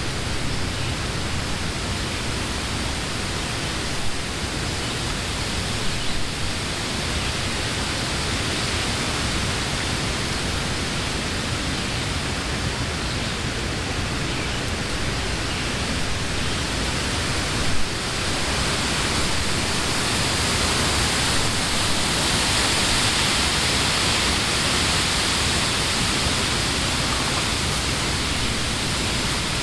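Wind blowing through the leaves of trees, a steady rushing hiss that swells louder about two-thirds of the way through, with a few brief gusts or bumps along the way.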